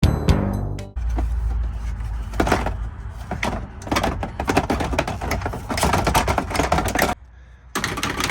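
A short ringing tone that dies away within about a second, then a busy run of sharp clicks, taps and scrapes of small hard parts being handled and worked with tools, with a brief lull a little after seven seconds.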